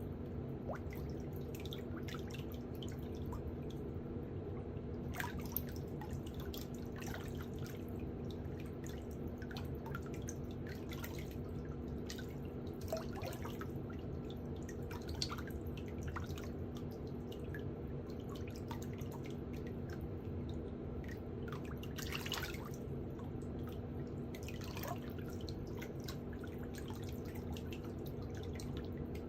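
Scattered small clicks and ticks, irregular and a few a second at most, over a steady low hum.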